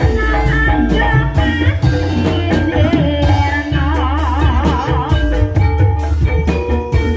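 Javanese gamelan ensemble playing gending ebeg, the music for a kuda kepang horse dance: drums keep a steady beat under a sung melody with a wavering vibrato about four seconds in.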